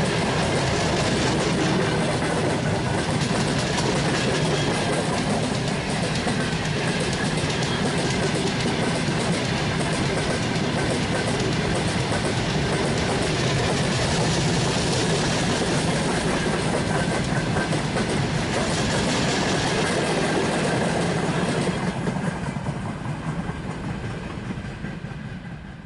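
Loaded open coal wagons of a broad-gauge freight train rolling past, a steady loud wheel-on-rail noise. It fades away over the last few seconds as the end of the train passes.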